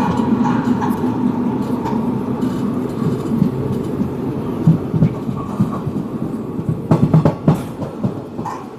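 Kaveri Express passenger train running, a steady rumble with a cluster of sharp clacks about seven seconds in.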